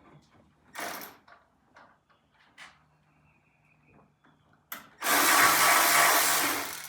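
Light clicks and knocks of tools being handled, then about five seconds in a cordless power tool runs in a fastener for under two seconds and stops.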